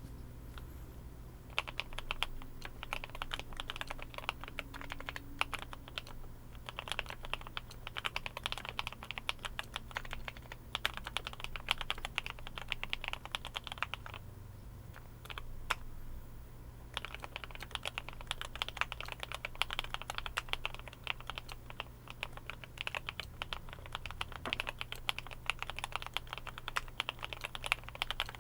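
Typing on a Glorious GMMK Pro mechanical keyboard with Kailh Cream linear switches lubed with Krytox 205G2 and EVA foam inside the case: fast runs of keystrokes, with a pause of about three seconds midway before the typing resumes.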